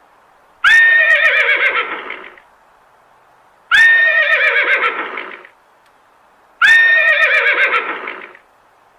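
A horse whinnying three times, evenly spaced, each call a high quavering neigh of under two seconds that trails off. The three calls look identical, like one recorded whinny played over again, each starting with a sharp click.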